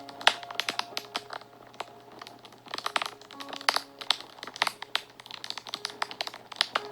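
Wood fire crackling, with irregular sharp snaps and pops several times a second. Soft background music of long held notes sits faintly beneath it.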